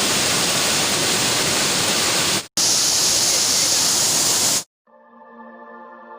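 Waterfall's falling water rushing loudly as a steady roar of noise, cut once briefly about two and a half seconds in, then stopping abruptly. Soft ambient music with held tones fades in near the end.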